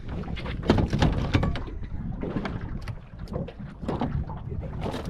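Irregular knocks and clatter on a small fishing boat, over a steady low rumble.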